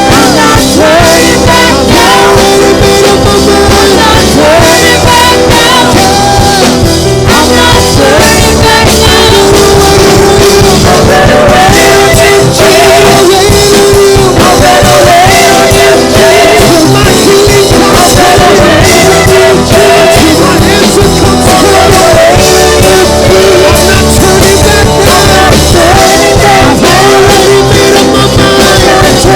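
Praise and worship band playing loudly and steadily, with singing voices over guitar and full band backing.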